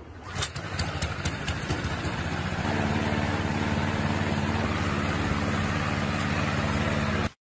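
A few sharp clicks in the first two seconds, then a motor vehicle engine running steadily from about two and a half seconds in, cutting off abruptly near the end.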